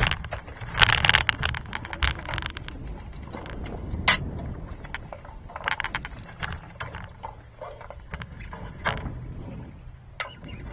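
Steady low rumble of wind and water aboard a small sailing yacht at sea, with a few bursts of hiss and several sharp knocks.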